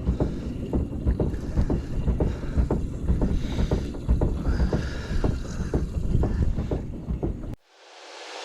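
Gusty wind buffeting the microphone aboard a boat, with irregular small knocks and splashes. Near the end it cuts off abruptly and electronic music swells in.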